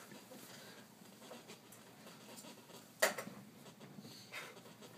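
Quiet room tone with a single short, sharp noise about three seconds in.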